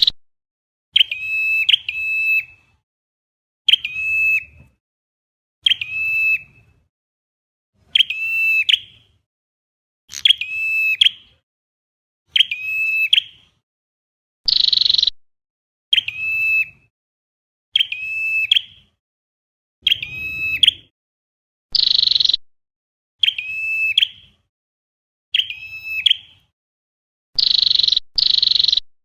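Flowerpecker calls played as a lure, a short ringing chirp phrase about every two seconds, some given twice in quick succession, with a few harsher buzzy calls in between.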